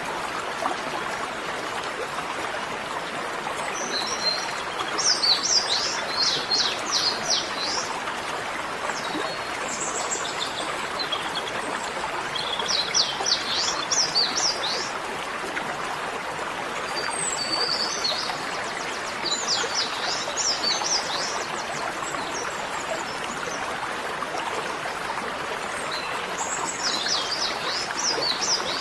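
Birds singing in several bursts of quick chirps over the steady rush of running water, like a stream.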